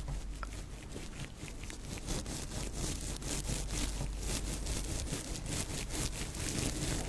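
Close-up rubbing and scraping: a dense, even run of short scratchy strokes.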